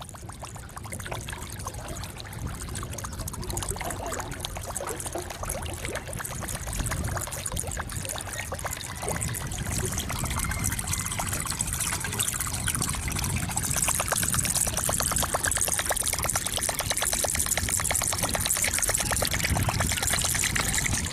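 Strong wind gusting, rumbling on the microphone and rushing with a crackling hiss through the surrounding vegetation, just before a rainstorm.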